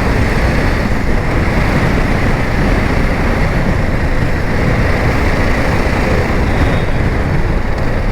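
Steady wind rushing over the microphone of a camera on a moving motorcycle, with the bike's engine and road noise underneath.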